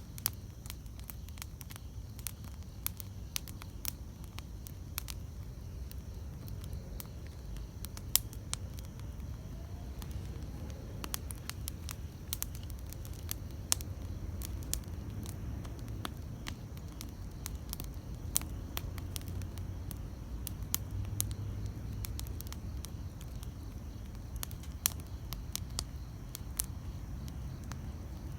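Wood campfire burning, with frequent irregular crackles and sharp pops over a low steady rumble of flame. One pop about eight seconds in is louder than the rest.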